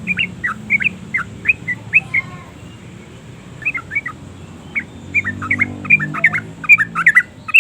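Yellow-vented bulbul singing: quick, sharp chirping notes in a bubbly run, a pause of about a second and a half, then a faster, denser run of notes.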